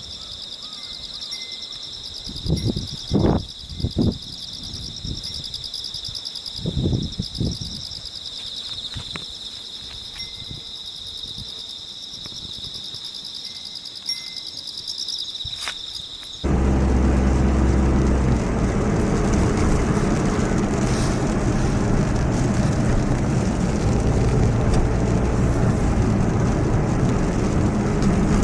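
Insects trilling steadily at a high pitch, with a few dull knocks. About sixteen seconds in, this cuts off abruptly and a loud, steady rushing noise with a low rumble takes over.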